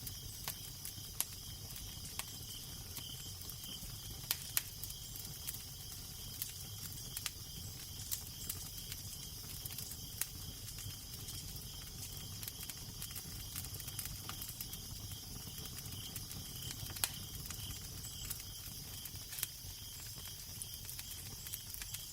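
Fireplace fire crackling: irregular sharp pops and snaps over a steady hiss, with a low rumble underneath.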